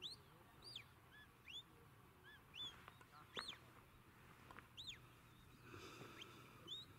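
Faint birdsong: several short, arching chirps at different pitches, one every half second to a second, over a quiet open-air background.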